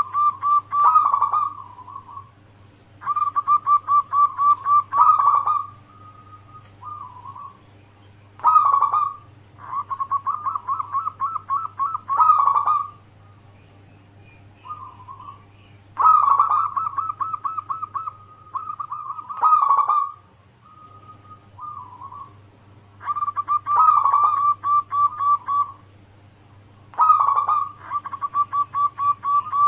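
Zebra dove (perkutut) cooing: six phrases of rapid pulsed coos at one pitch, each a few seconds long, with short pauses between them.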